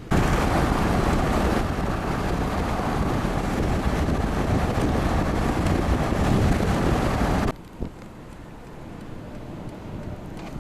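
Loud, steady wind noise buffeting the microphone during a severe storm. It starts abruptly and cuts off sharply about three-quarters of the way through, leaving a fainter rush.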